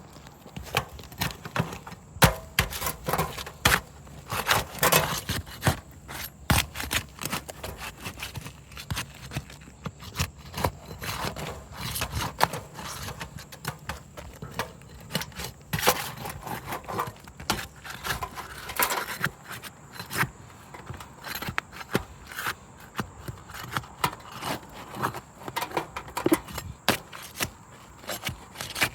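Asphalt roof shingles being pried up around a roof vent: irregular scraping, crackling and clicking as the glued sealant strip is broken loose, which cracks the shingle.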